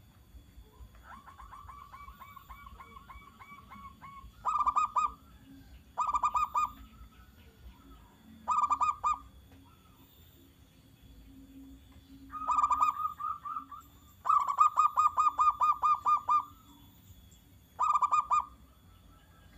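Zebra dove (perkutut) calling in its rapid, staccato cooing song: a softer quick run of notes about a second in, then about six loud short bursts of fast-pulsed coos at irregular gaps.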